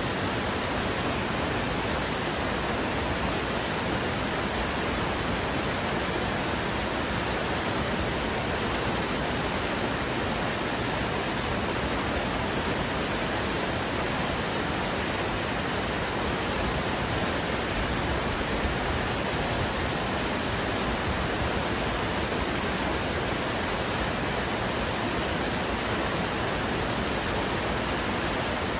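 Steady rushing water, an even, unbroken hiss with no changes in level.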